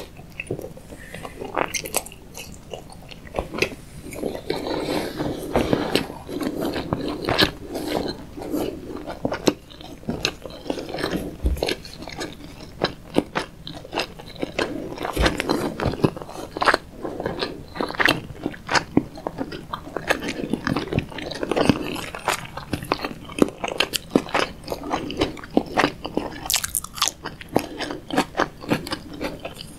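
A person chewing a mouthful of tuna nigiri sushi close to the microphone, a steady run of quick mouth clicks.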